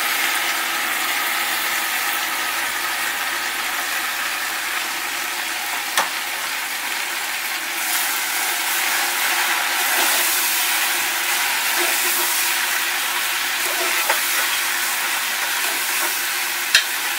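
Taro leaves and potatoes sizzling in hot oil in a pressure cooker pot while being stirred with a metal spoon, a steady hiss with a few sharp clicks of the spoon against the pot.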